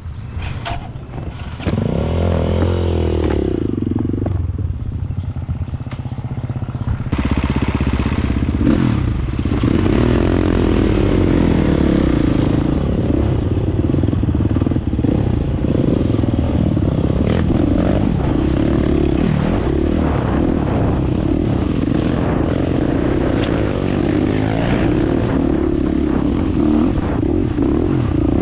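Dirt bike engine running under way, its pitch rising and falling with the throttle. It picks up about two seconds in and gets louder about seven seconds in.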